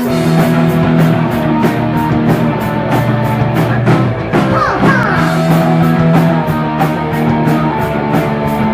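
Punk rock band playing live: the instrumental opening of a song, with electric guitar and bass chords held over a steady drum beat and evenly struck cymbals, and a few sliding guitar notes about four seconds in.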